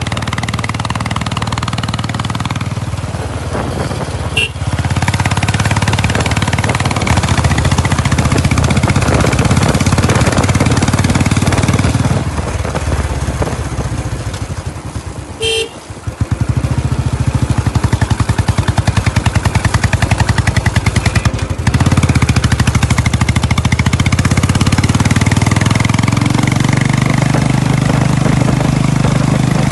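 Royal Enfield Bullet Electra single-cylinder motorcycle engine running with its even thumping beat, easing off about halfway and then revving back up louder. A short horn beep sounds at the quietest point, about halfway through.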